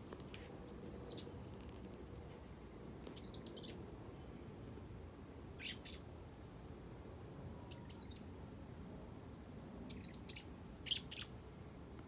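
A fledgling songbird chirping: short, high chirps in about six little clusters, a second or two apart.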